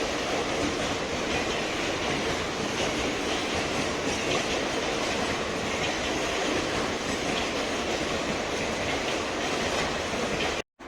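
A train passing close by: steady loud rolling noise of its wheels on the rails, cut off suddenly near the end.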